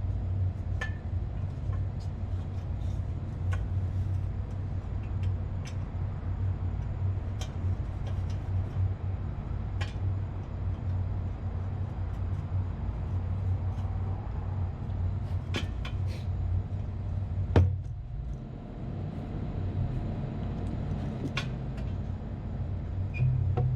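Steady low electrical hum of running air-conditioning plant machinery, with scattered light metallic clicks and taps and one louder knock about 17 seconds in.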